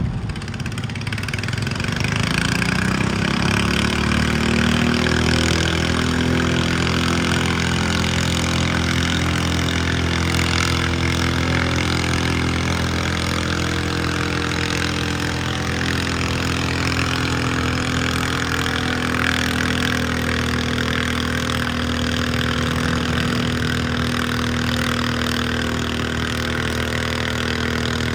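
Garden pulling tractor's engine winding up over the first couple of seconds, then held at a steady high speed under load for the rest of the run.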